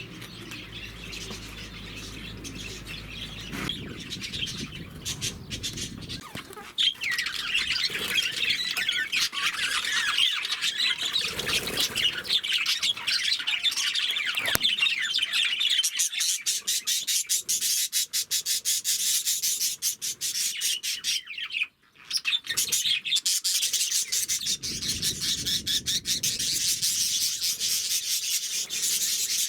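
A mixed flock of small cage birds (budgerigars, Bengalese finches and Java sparrows) chirping and chattering, many high, quick calls overlapping continuously, with a brief break about two-thirds of the way through.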